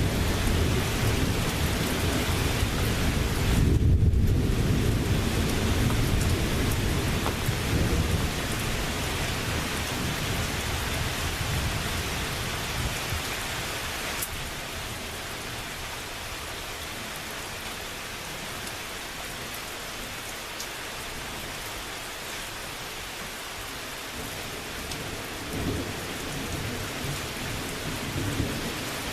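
Steady rain with a long roll of thunder that rumbles loudest about four seconds in, then fades away over the next several seconds. Fainter rumbles return near the end.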